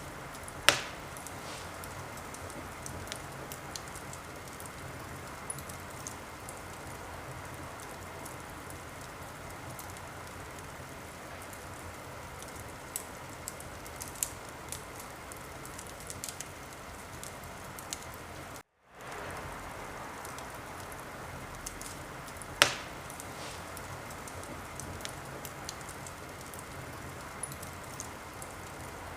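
Wood fire in a fireplace crackling: a steady hiss with scattered small crackles and two loud pops, one about a second in and one about three-quarters of the way through. The sound drops out completely for a split second just past halfway.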